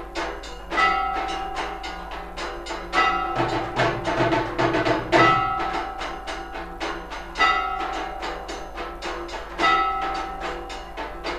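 Temple aarti percussion: rapid, continuous drum and clanging beats, with a ringing stroke that recurs about every two seconds.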